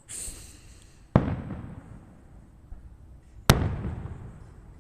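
Two firework bursts, one about a second in and one about two seconds later. Each is a sharp bang followed by a long rumble that fades away.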